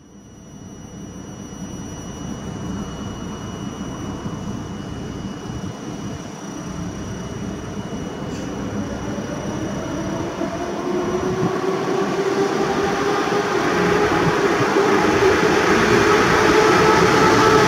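EP07 electric locomotive hauling a passenger train on its approach, the rumble of the train growing steadily louder after fading in, with a whine that bends slowly in pitch and strengthens over the last several seconds as it nears.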